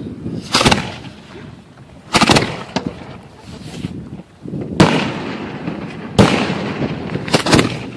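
Aerial fireworks shells fired from steel mortars and bursting overhead, heard at close range as a series of about six loud, sharp bangs at irregular intervals, with rumbling between them.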